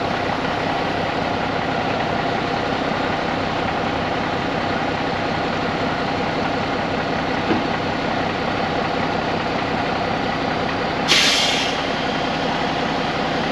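Mack CV713 truck's diesel engine idling steadily, an engine the seller says runs with a miss. About 11 seconds in, a short, sharp hiss of air is released from the truck's air system.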